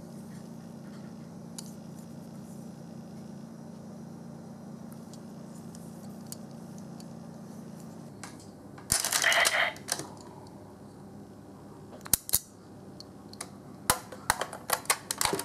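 A faint steady hum, then sharp hard-plastic clicks and rattles from handling a toy. There is a short louder burst of clatter about nine seconds in and a quick run of clicks near the end.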